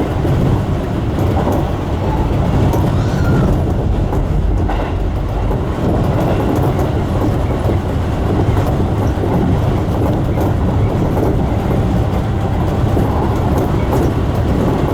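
Seibu Tamagawa Line electric commuter train running, a steady loud rumble of wheels on the rails.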